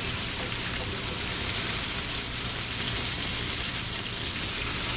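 Floured chicken pieces sizzling steadily in hot oil in a sauté pan, an even crackling hiss.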